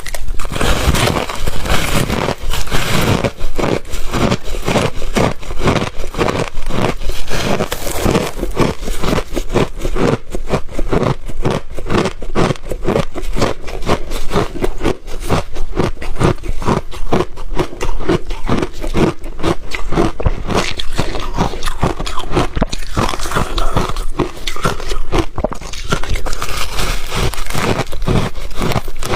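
Close-miked chewing of refrozen ice: a rapid, unbroken run of crisp crunches and cracks, several a second, as the ice is bitten and ground between the teeth.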